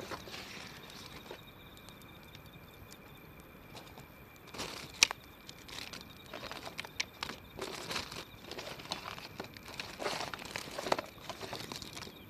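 Wood fire crackling and popping, sparse at first and busier from about halfway, with one sharp loud pop about five seconds in.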